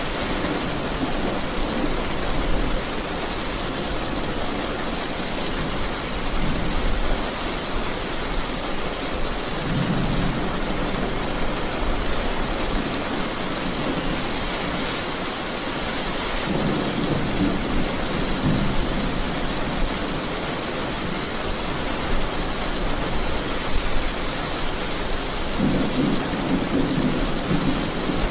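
Steady rain with low rolls of thunder rumbling four times: near the start, about ten seconds in, around eighteen seconds and near the end.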